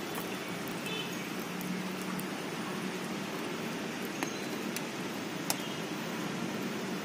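Steady hiss of light rain falling on the river and the bankside plants, with a few sharp drop ticks, the loudest about five and a half seconds in.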